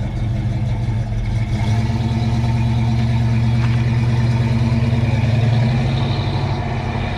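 A car engine running at idle, steady throughout, getting a little louder through the middle and easing back near the end.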